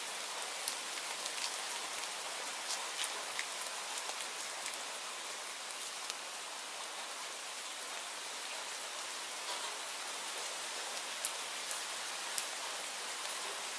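Steady rainfall, an even hiss dotted with scattered sharp ticks of individual drops.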